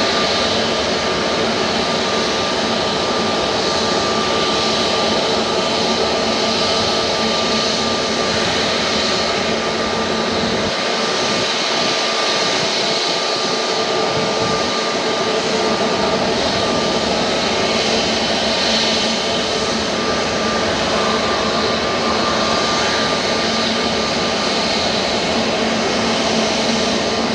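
Jet airliner engines running, a loud steady rush with a held whine; the low rumble drops away for a few seconds midway.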